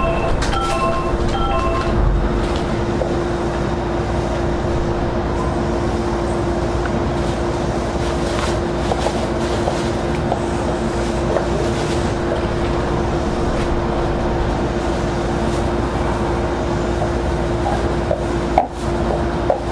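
Running noise of a Semboku 7020 series electric train heard from on board: a steady rumble of wheels on rail with a steady hum throughout and scattered faint clicks. A few short electronic chime tones die away in the first two seconds, and a sharp knock comes near the end.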